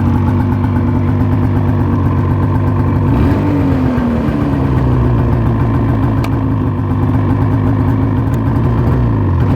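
2007 Ski-Doo MXZ Blizzard's 800 H.O. two-stroke twin engine idling steadily, with a short rise and fall in engine speed about three seconds in, and the revs starting to sag near the end.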